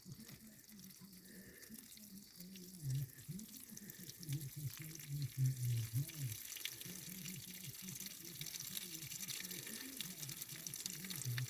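Water draining out of the oil pan of a Thiokol Spryte snowcat's engine and trickling and splashing into a puddle below, growing stronger about halfway through. The crankcase is full of water after years of standing, which is why the dipstick read high. Faint low muttering runs underneath.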